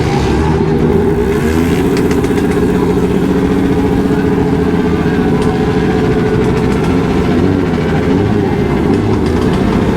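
Motorcycle engines running steadily, with several engine notes wavering up and down together.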